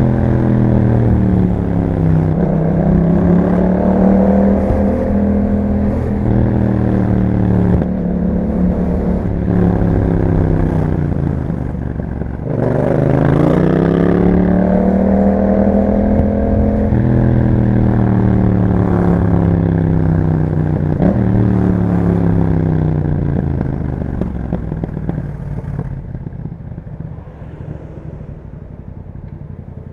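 Yamaha MT-07's parallel-twin engine through an Akrapovic exhaust, accelerating with its pitch rising and dropping through gear changes. About twelve seconds in the revs fall away, then it pulls up again, and near the end it eases off and gets quieter.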